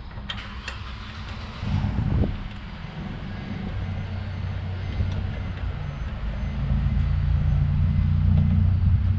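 A motor vehicle's engine running with a steady low hum that grows gradually louder, with a few sharp clicks near the start and a brief louder burst about two seconds in.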